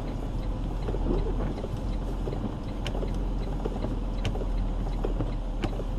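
Semi truck on the road: a steady low engine and road rumble, with occasional light clicks and rattles.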